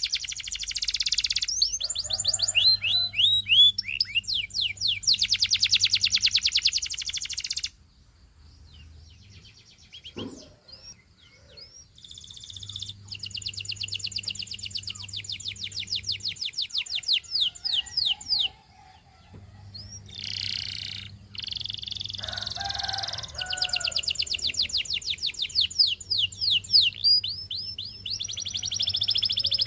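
Domestic canary singing: long, rapid high-pitched trills in phrases several seconds long, each a fast run of repeated notes, with a short quieter pause about a third of the way in and another just past halfway.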